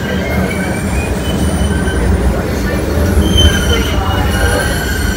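MBTA Green Line light-rail car running with a steady low rumble, its steel wheels squealing on the rails in several high, thin tones that come and go.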